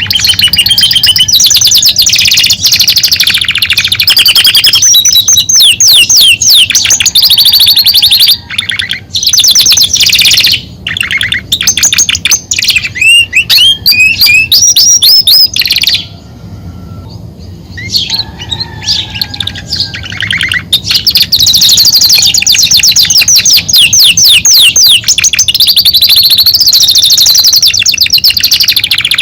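Male domestic canary singing a loud, continuous song of rapid trills: runs of fast-repeated high notes and quick sweeping phrases, with a pause of about two seconds roughly halfway through.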